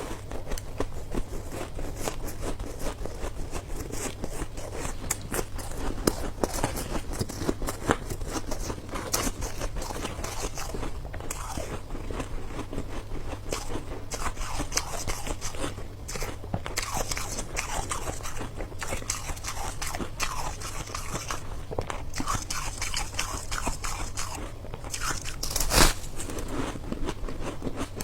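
A person biting and chewing hard ice up close, a dense run of crunching and crackling bites with one sharper, louder crunch near the end.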